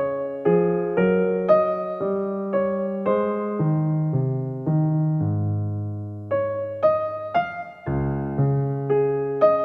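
Background music: an electric piano playing a slow, gentle melody over chords, a new note about every half second.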